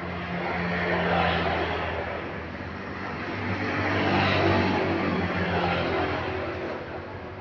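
Heavy road traffic: a low engine drone with tyre and road noise that swells twice as vehicles go by.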